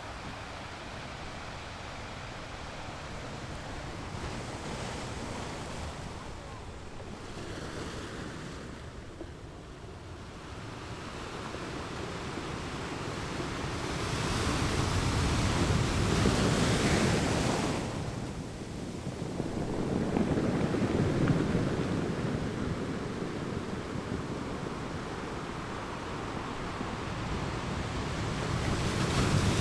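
Ocean waves washing onto a shore: a steady wash of surf that swells into louder breaking waves about halfway through, again a few seconds later, and once more near the end.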